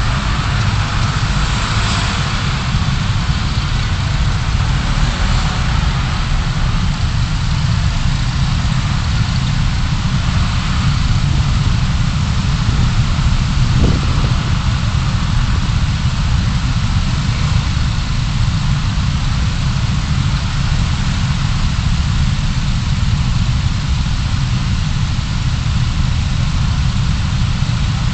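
Car engine running steadily, a low rumble heard from inside the cabin through a dashcam microphone.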